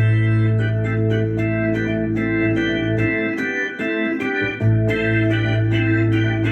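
B3-style organ patch on a Roland Fantom FA76 synthesizer, playing held chords over a low bass note that drops out briefly in the middle.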